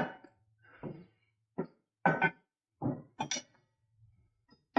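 Metal clanks and knocks of lift-arm height adapters being handled and set into the arms of a vehicle lift, a series of separate strikes about a second apart.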